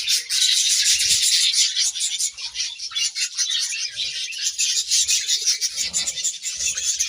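A colony of budgerigars chattering continuously, many birds chirping and warbling over one another in a dense, fast stream of high chirps.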